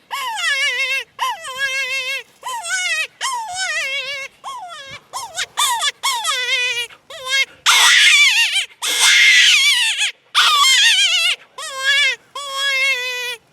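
Kenmore Kottontail hand-blown predator call played as a rabbit distress call: a rapid string of short, wavering, crying squeals with brief breaths between them, turning louder and raspier in the middle.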